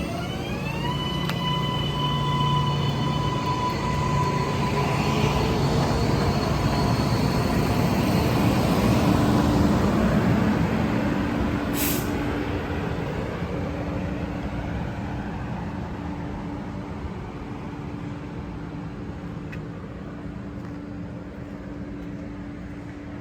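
MBTA Green Line light-rail train running, its electric motor whine rising in pitch in the first second and then holding steady over a rumble. The sound swells to a peak about ten seconds in and then slowly fades, with a brief hiss near the middle.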